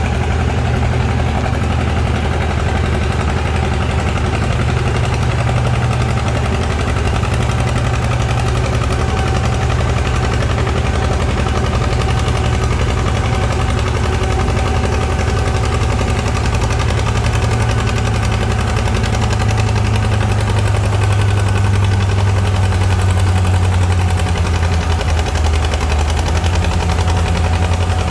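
Antique farm tractor engine running steadily, a little louder in the second half.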